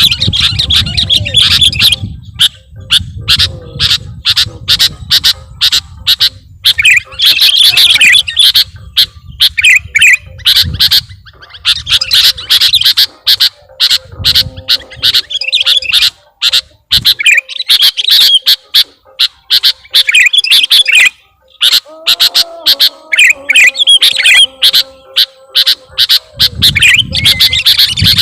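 Sooty-headed bulbul (kutilang) calling loudly and repeatedly: runs of sharp, quick chirping notes broken by short pauses, from a bird-lure recording.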